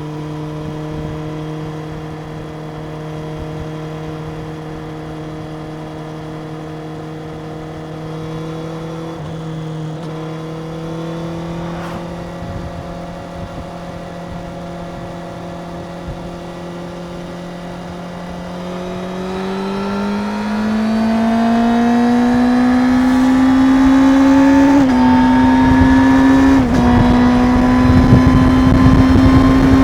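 Stock 2025 Suzuki GSX-R750's inline-four engine running at a steady, even pitch, then pulling harder with rising revs and two quick drops in pitch near the end as it shifts up. Wind rush builds as it gets louder.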